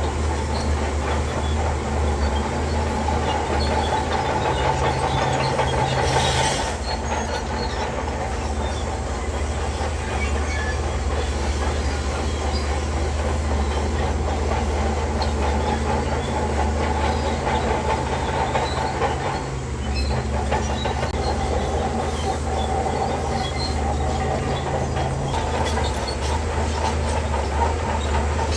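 Shantui DH17C3 crawler bulldozer working: a steady diesel engine drone with the clatter and occasional squeal of its steel tracks. The engine note shifts a few times as the load changes.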